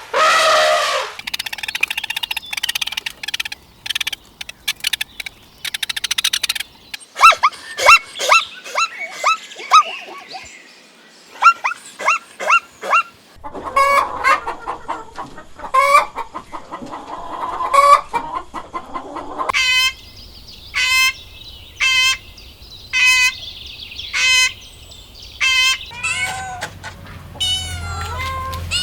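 Chickens clucking, with runs of short sharp calls.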